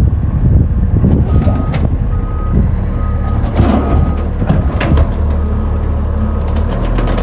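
Garbage truck's diesel engine running with its reversing alarm beeping four times in a row, while sharp clanks and hisses sound over the engine.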